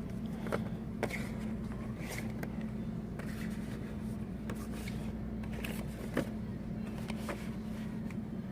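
Steady low hum of a store's background noise, with scattered light clicks and scrapes from handling the phone and the toy packaging.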